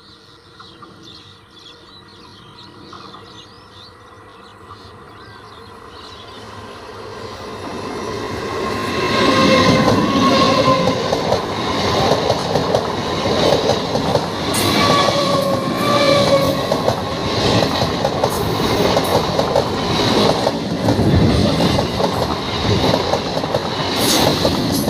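An EMU electric local train approaching and running past at speed on a curve: a growing rumble that turns loud about eight seconds in, then steady wheel clatter over the rails as the coaches go by, with brief squeals from the wheels in the curve.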